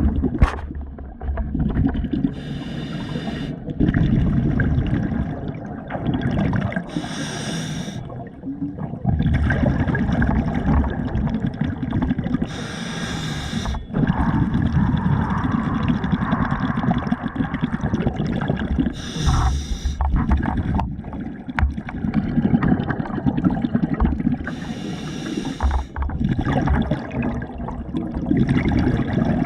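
Water sloshing and gurgling close to the microphone, with a short hissing burst about every five or six seconds.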